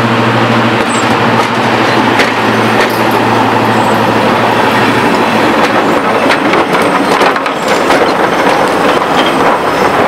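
Train of passenger coaches rolling past on the rails, with scattered wheel clicks and knocks. The steady note of Class 55 Deltic D9002's Napier Deltic diesel, running on one of its two engines, fades out about halfway as the locomotive draws ahead.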